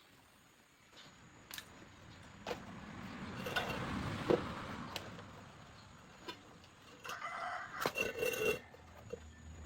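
A rooster crowing loudly once near the end, with a few sharp clicks scattered before it.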